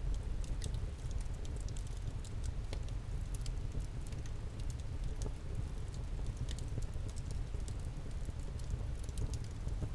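Campfire crackling: a steady, irregular patter of small sharp pops and snaps from the burning wood, over a low steady rumble of the flames.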